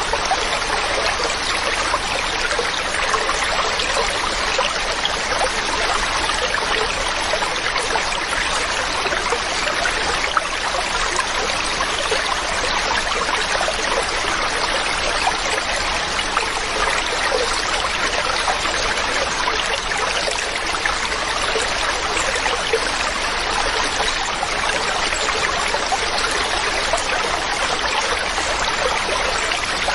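Mountain stream running steadily, an even rushing and trickling of water over rocks.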